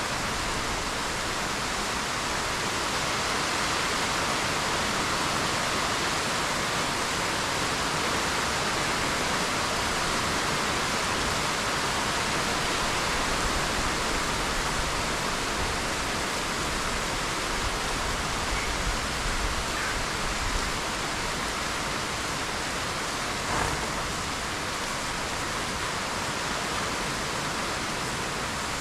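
Steady rain falling on trees, an even hiss, with one brief tap about two-thirds of the way in.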